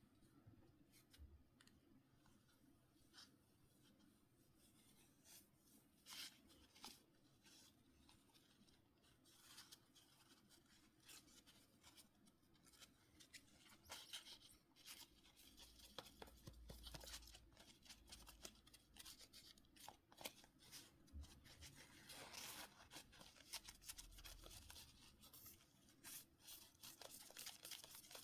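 Faint, scattered clicks and scratching of small phone parts and tools being handled. Sparse at first, busier from about halfway through.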